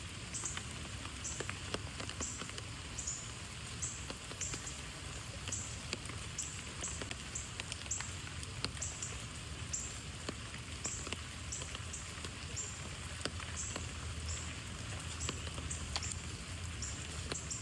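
Rain pattering, with scattered sharp drop clicks over a low steady rumble. A short high chirp repeats roughly every half second throughout.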